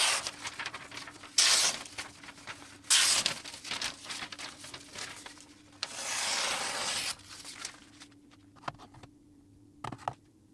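Silicon carbide water stone on a guided sharpening system rubbing along the edge of a VG10 Damascus steel chef knife, in separate short rasping strokes, with one longer stroke about six seconds in. A few light clicks near the end.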